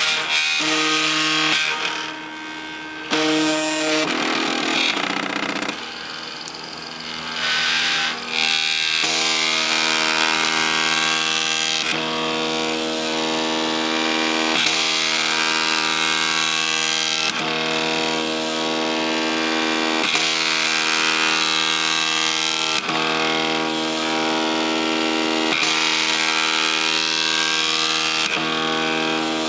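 MakerBot 3D printer running a print, its stepper motors whining in steady tones. Over the first eight seconds or so the pitch shifts every couple of seconds as the moves change, then it settles into a steadier whine with a few brief changes.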